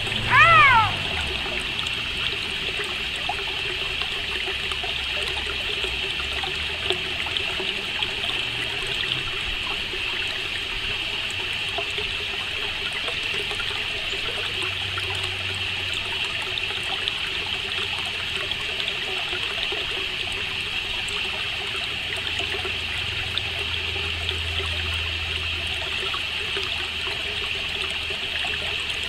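Steady nature ambience: water trickling continuously under a high, even cricket chirring, with one short rising-and-falling call right at the start.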